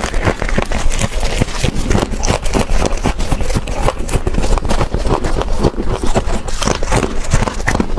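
Close-miked crunching of scraped freezer frost ice: a dense, unbroken run of crisp crackles and crunches.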